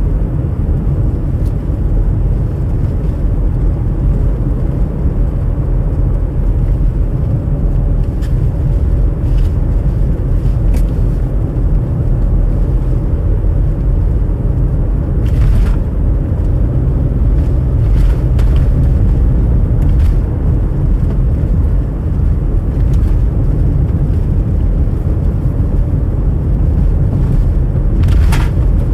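Steady low rumble of a car driving, with a few faint clicks along the way.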